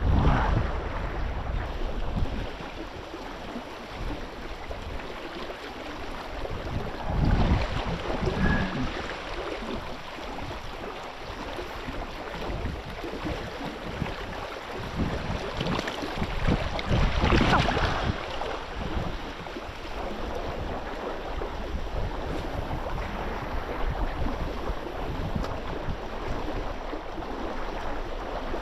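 Water sloshing and wind buffeting the microphone on open water in a tidal rip, with a few louder surges of water and wind.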